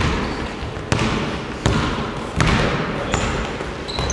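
A basketball being dribbled on a hardwood gym floor: sharp bounces about every three-quarters of a second, echoing in the hall, with a few short high squeaks near the end.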